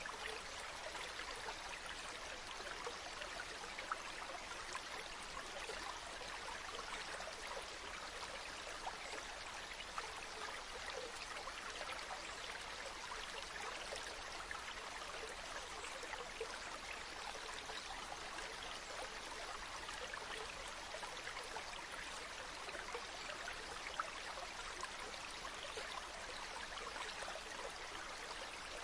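A small stream running steadily, an even babbling rush of water with fine crackle and a few brief louder splashes.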